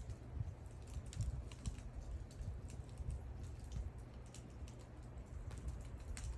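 Wood fire burning, with irregular sharp crackles and pops over a low rumble.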